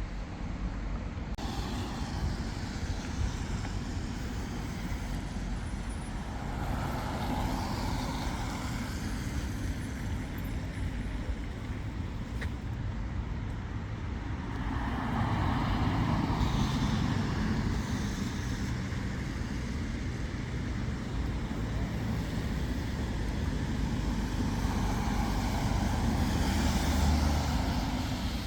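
Road traffic on a city street: a steady rumble of engines and tyres, swelling three times as vehicles pass close by.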